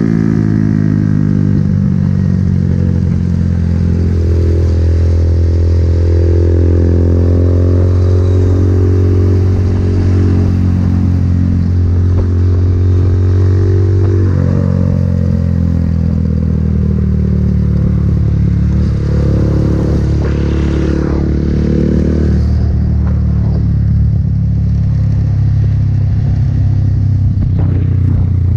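A vehicle engine running under way, its steady low drone shifting in pitch several times as the speed and gears change.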